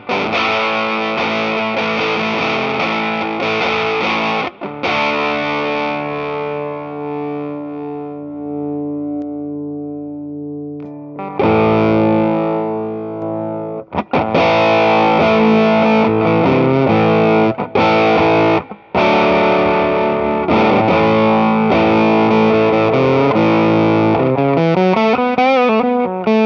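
Electric guitar played through an EarthQuaker Devices Sound Shank germanium fuzz pedal: fuzzed chords, one left ringing and fading for several seconds, then louder playing with a few short stops, ending on a wavering, bent note.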